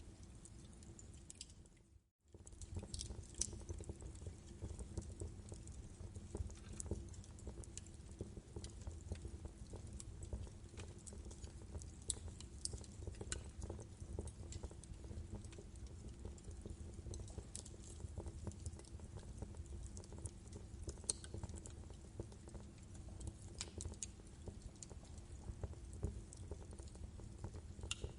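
Wood fire crackling in a fireplace: a low steady rumble of burning logs with scattered sharp pops and snaps. About two seconds in, the sound fades almost to nothing for a moment and then comes back.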